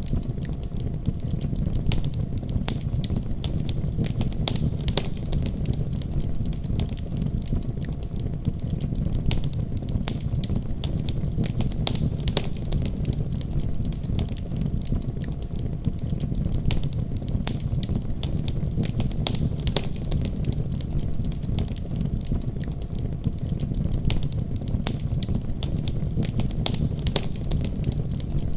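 Fire burning in a fireplace: a steady low rumble of flames with frequent small crackles and pops scattered throughout.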